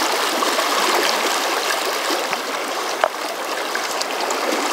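Fast, rough river current rushing steadily. One sharp click comes about three seconds in.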